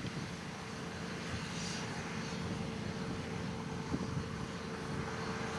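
Farm harvesting machinery running steadily in the field: a diesel engine hum with a constant whine above it.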